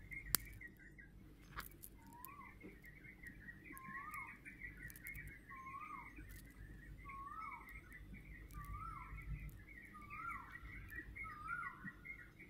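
Birds chirping: a continuous high twittering with a short whistled note repeated about once a second. A few faint clicks, the sharpest just after the start.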